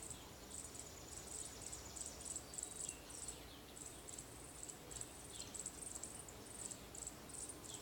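Faint, high-pitched insect chirping that pulses about three times a second, with a few faint falling whistles over it.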